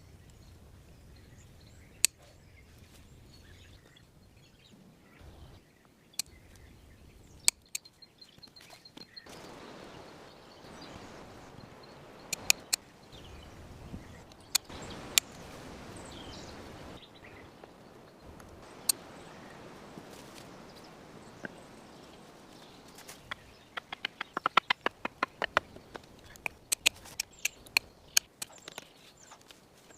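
Scattered sharp snaps and knocks with stretches of rustling, and a quick run of snaps in the last few seconds; a faint bird chirp a little before the rustling starts.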